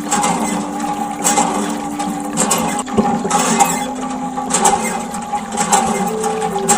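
Water gushing and splashing from a miniature DIY water pump, with a steady tone underneath.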